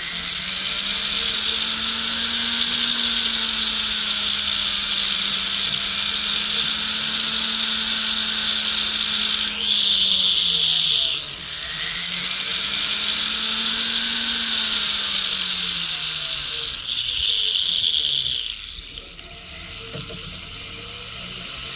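Jeweler's rotary tool running, its motor pitch slowly rising and falling, as it grinds down the soldered-in sizing piece on a gold ring shank so the seam disappears. The grinding hiss gets louder twice and stops near the end.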